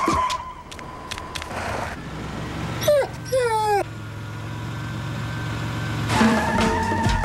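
A dog whining twice in short, wavering, falling cries about three seconds in, over the steady low hum of a pickup truck's engine. The commercial's music fades out at the start and comes back near the end.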